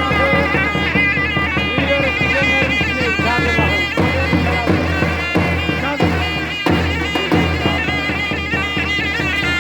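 Davul and zurna playing folk music: the zurna's loud, reedy melody winds over the beat of the davul drum.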